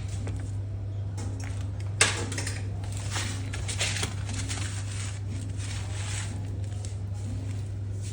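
Kitchen handling sounds over a steady low hum: a sharp knock about two seconds in, then light clinks and scrapes of utensils and containers.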